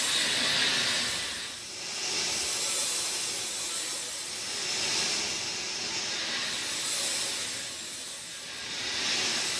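Rain falling: a dense hiss that swells and eases about every two seconds.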